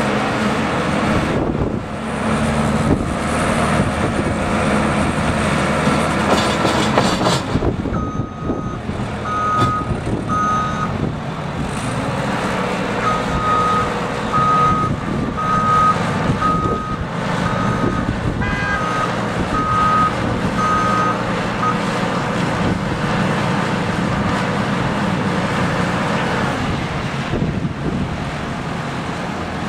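A heavy snow-clearing vehicle's engine running, with its reversing alarm beeping a little faster than once a second from about a quarter of the way in until about three quarters through.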